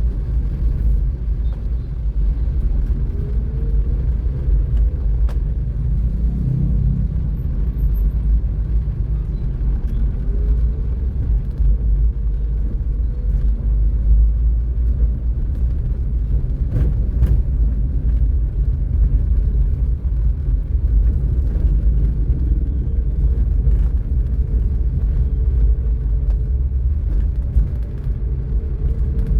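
Steady low rumble of a vehicle driving along a road, engine and road noise, with a few faint clicks.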